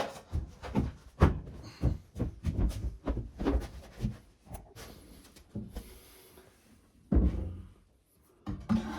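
Irregular knocks and thunks of a tacked-together wooden frame being handled and pushed into place, with a heavier thud about seven seconds in.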